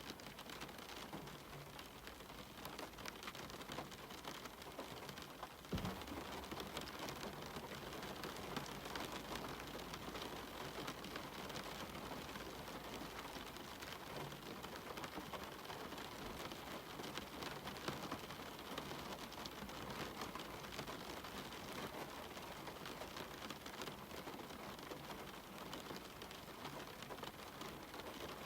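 Steady rain falling on a cabin window, an even hiss dense with small drop taps. One louder tap or knock comes about six seconds in.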